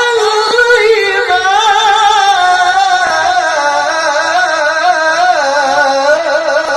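A Quran reciter's voice in melodic tilawah, holding one long, ornamented vowel in a high register that wavers in trills and sinks gradually in pitch.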